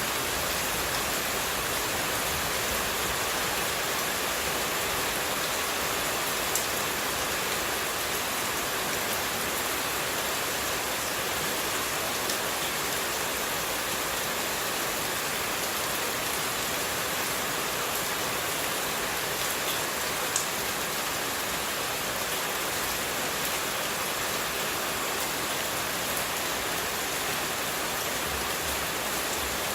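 Steady, even rush of running water, with a couple of faint ticks.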